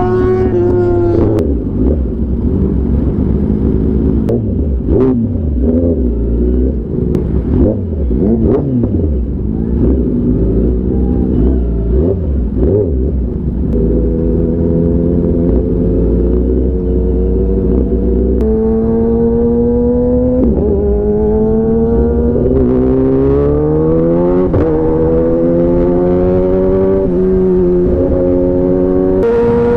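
Kawasaki ZX10R superbike engine under way. In the first half its pitch wanders, then it climbs through the revs and drops back at each of four or five quick upshifts.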